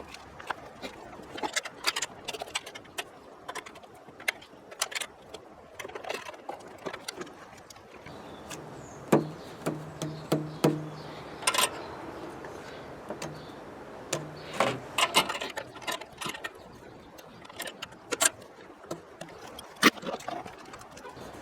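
Irregular sharp clicks and knocks, several loud ones, with a low steady hum for a second or two in the middle and again shortly after.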